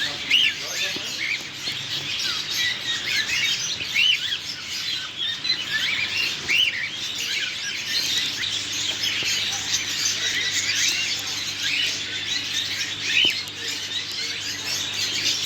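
Many caged pet birds chirping and calling at once, a continuous chatter of short, overlapping rising-and-falling calls.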